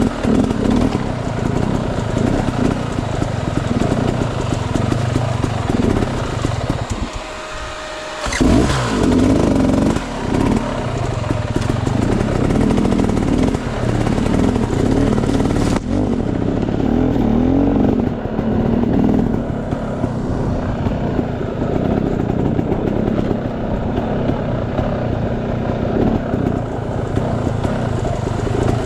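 Off-road enduro motorcycle engine running on a trail ride. It eases off briefly about seven seconds in, then opens up again.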